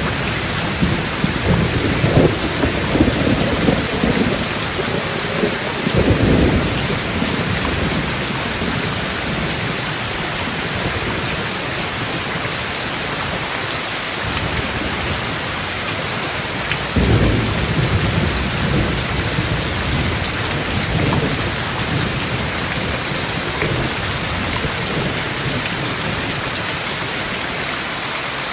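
Steady heavy rain with thunder rumbling. The rumbles come in two spells, one in the first six seconds and one starting about seventeen seconds in.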